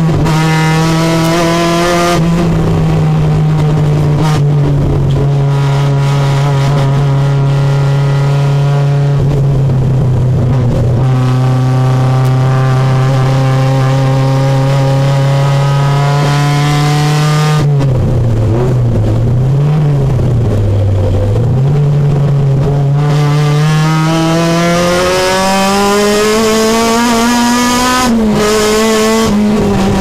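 Supercharged Honda K24 2.4-litre four-cylinder engine of a race-prepared Civic, heard from inside the cabin while lapping a circuit hard. The engine note holds a fairly steady pitch with small steps at first, wavers and drops through a slower section about two-thirds of the way in, then climbs steadily as the car accelerates out.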